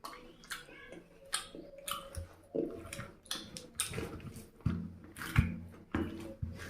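Close-miked chewing and wet mouth smacks of someone eating a chicken curry and rice meal, in irregular bites and smacks throughout.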